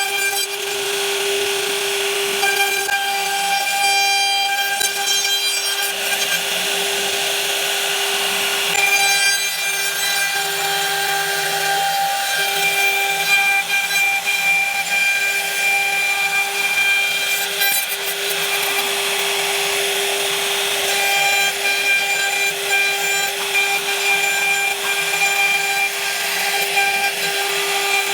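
High-speed power tool cutting wood: a steady motor whine with a noisy cutting rasp over it, the upper overtones of the whine coming and going as the load changes.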